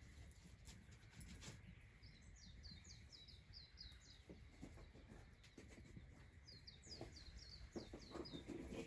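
A small songbird singing faintly in the distance: two phrases, each a quick run of about seven high downward-slurred notes, the first about two seconds in and the second near the end, with a few faint clicks.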